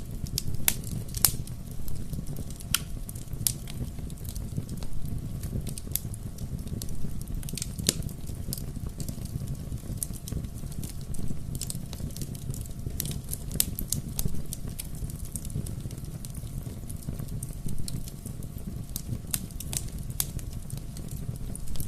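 Wood bonfire crackling: frequent, irregular sharp pops and snaps over a steady low rumble of burning.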